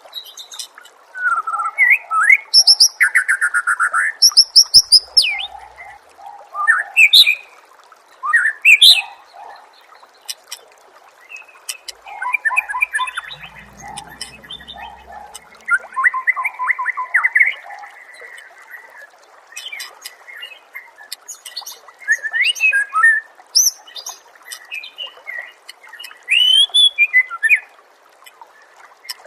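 Recorded songbird song of the kind used as a masteran tutor track for murai: bursts of rapid chirps, trills and gliding whistled phrases with short pauses between them, over a faint steady background hiss.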